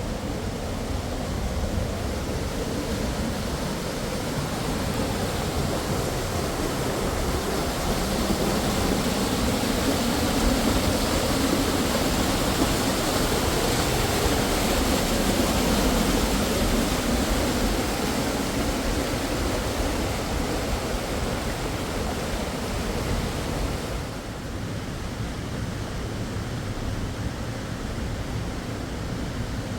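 Rushing river water: a steady, loud noise that swells for a while, then drops a little about 24 seconds in.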